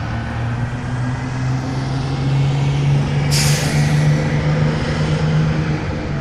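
A heavy vehicle's diesel engine running steadily, its pitch rising slightly. A sharp hiss of air comes about three seconds in and fades away.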